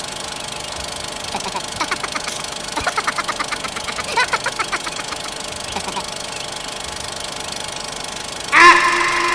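A steady mechanical hum, with a run of rapid rattling ticks in the middle. Near the end a loud, drawn-out rooster crow suddenly starts and is the loudest sound.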